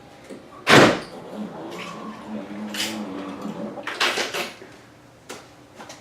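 A sharp bang or clunk about a second in, followed by a few lighter knocks, like a door or panel being shut.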